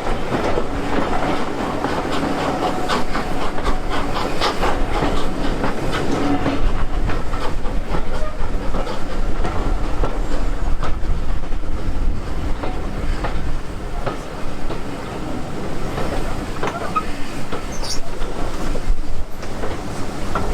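Train running along the track, its wheels clicking repeatedly over the rail joints with a steady rumble.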